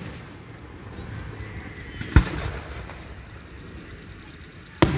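Two aerial firework bursts, a sharp bang about two seconds in and another near the end, over a low, steady background noise.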